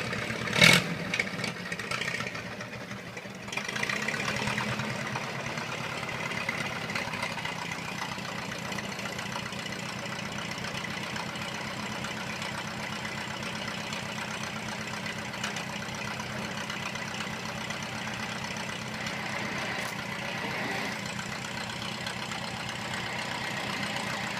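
1926 Ford Model TT's four-cylinder engine running steadily, with a sharp knock about a second in and a brief dip in level before the running sound comes back up.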